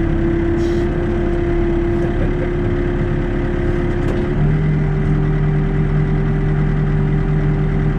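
Backhoe's diesel engine running steadily, its note shifting to a new steady pitch about four seconds in.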